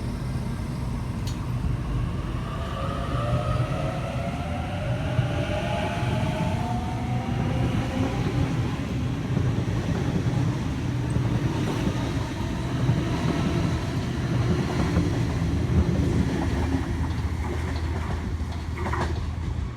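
Waratah A-set electric train pulling out. Its traction motors give a whine that rises in pitch over several seconds, over a steady low rumble of wheels on track.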